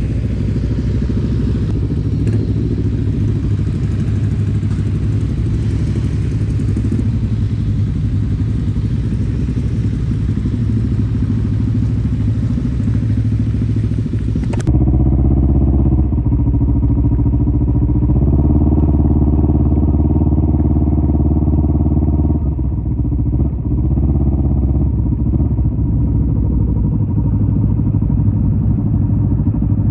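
Kawasaki Z250 motorcycle with a SeaPro aftermarket muffler running on the move, with hiss over the engine in the first half. About halfway the hiss cuts off abruptly, leaving a deeper, clearer exhaust note that steps up and down a few times.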